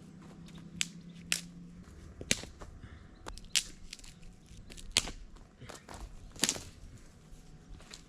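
Dry twigs and leaf litter crunching and snapping, with a sharp crack every second or so at an uneven pace, as someone moves through woodland gathering firewood.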